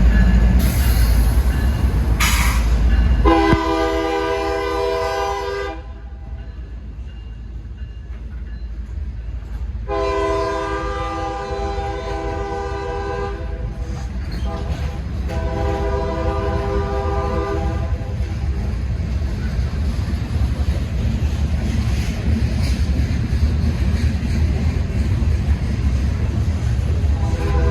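Train horn sounding a chord in three long blasts, with a fourth beginning near the end, over the steady low rumble of a passing train.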